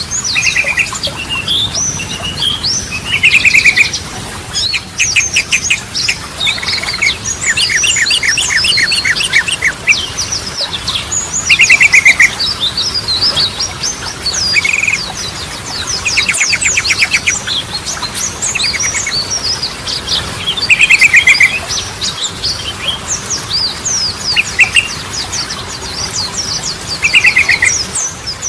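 Yellow-vented bulbul (trucukan) song: busy, high chirping chatter broken every few seconds by short, loud bursts of fast repeated notes.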